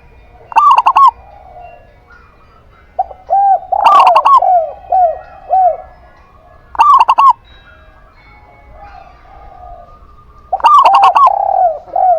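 A zebra dove and a spotted dove cooing in turn. Four short, loud bursts of cooing come a few seconds apart, with runs of softer, lower, arching coos between them.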